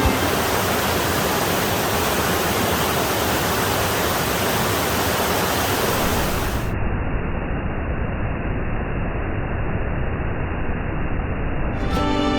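Rushing water of a mountain stream or waterfall, a steady dense hiss. About halfway through it turns duller, losing its highest hiss for several seconds before the full sound returns.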